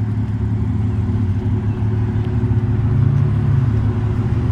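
Supercharged 3.0 V6 of an Audi S5 with an AWE aftermarket exhaust idling steadily, a deep exhaust note that swells slightly about three seconds in.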